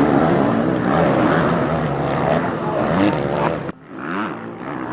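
Motocross bike engines revving hard together, their pitches rising and falling as the riders accelerate and shift. The sound cuts out sharply for a moment about three-quarters of the way through, then an engine revs up again.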